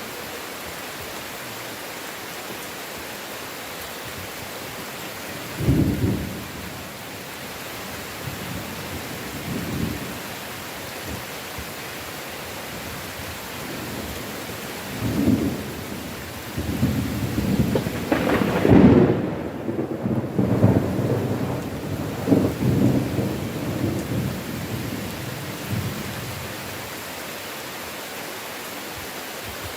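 Steady heavy rain with thunder: a sharp clap about six seconds in, a couple of softer rumbles, then a long rolling peal through the second half, loudest a little past the middle.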